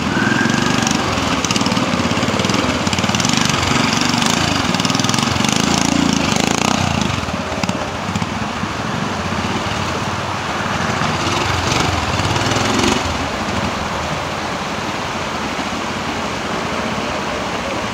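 Triumph Cub-based trials motorcycle's small single-cylinder four-stroke engine running steadily at low revs as it climbs a rocky stream bed and wooded bank, with rushing stream water behind it. The engine is louder in the first half and eases off a little after about 13 seconds.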